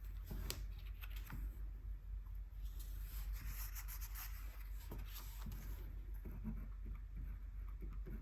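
An art tool stroking and scratching across paper, with a few light taps and a longer stretch of rubbing strokes about three seconds in.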